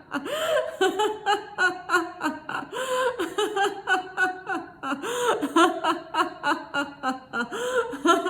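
A woman laughing continuously in quick rhythmic bursts of "ha-ha" syllables, several a second, her pitch rising and falling, in a deliberate exercise laugh.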